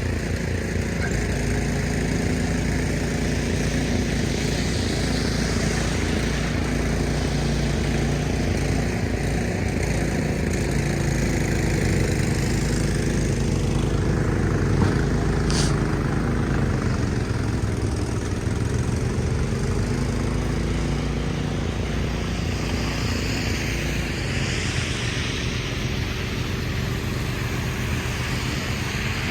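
An engine running steadily nearby with a low, even drone; its pitch sags and comes back up a little past halfway. A brief high squeak sounds just before the dip.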